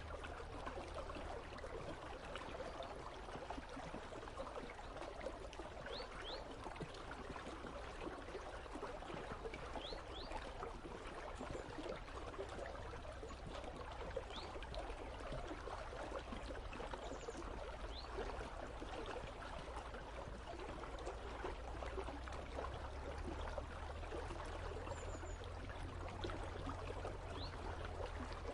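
Partly frozen river running steadily, a continuous babbling rush of water with a low rumble beneath. A few faint, brief high chirps come every few seconds.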